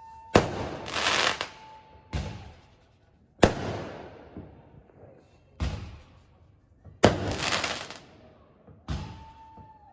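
New Year's fireworks exploding: six sharp bangs about every one and a half to two seconds, each fading away, some followed by a burst of crackling. A steady high whistle is held for a couple of seconds near the start and again near the end.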